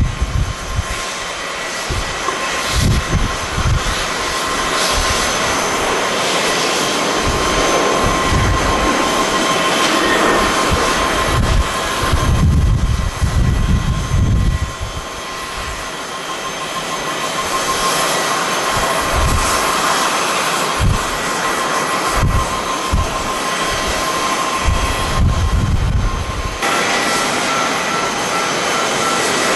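Jet airliner engines running with a steady roar and a thin whine over it, while gusts of wind buffet the microphone with irregular low rumbles. Near the end the sound changes abruptly to a different steady engine tone.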